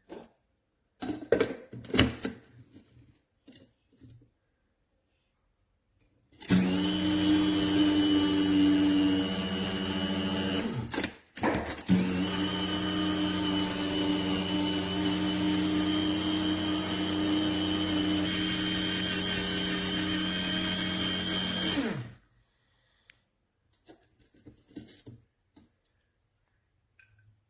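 Moulinex AR1108 electric blade coffee grinder's motor running with a steady high whine, first for about four seconds, then, after a brief stop, for about ten seconds more. A few handling clicks come before it starts.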